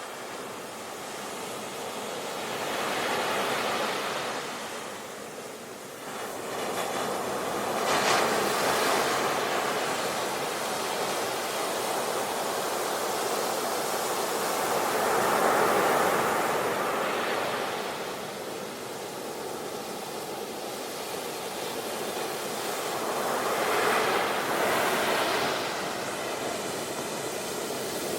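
Ocean surf on a beach: four waves, each swelling and fading, the one about eight seconds in breaking most sharply.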